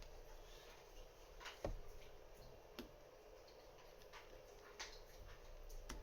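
A handful of faint clicks and taps from small metal parts of a Lagard 2200 safe lock being handled and fitted during reassembly, the loudest about a second and a half in.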